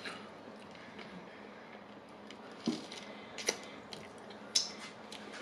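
Close-miked chewing of a Subway sandwich, with several sharp wet mouth smacks in the second half.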